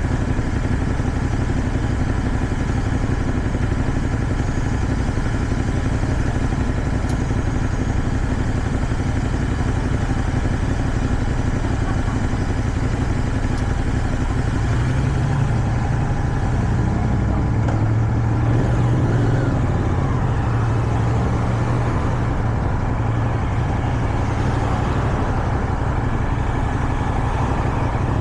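A CFMoto 450SR motorcycle's engine running under way, mixed with wind noise. The engine note shifts with the revs about halfway through.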